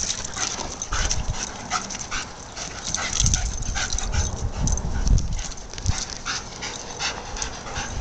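German Shepherd panting in quick breaths, about three a second, with low rumbles underneath.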